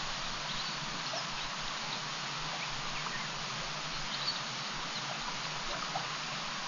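Steady outdoor hiss with faint, short bird chirps scattered through it.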